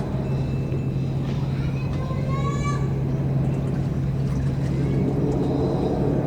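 Steady low drone of a ferry's engines running, with faint voices in the background.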